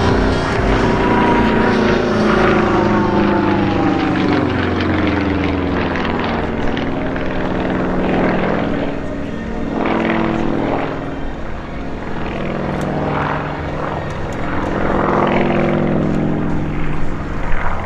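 A Sukhoi Su-26MX's Vedeneyev M-14P nine-cylinder radial engine and propeller in an aerobatic display pass. The engine note slides down over the first few seconds, then rises and falls several times as the power and distance change.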